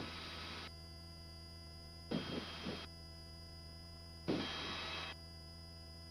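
Steady, even hum of a helicopter in flight heard through the headset intercom, broken three times by short bursts of hiss as voice-activated headset microphones open and cut off again.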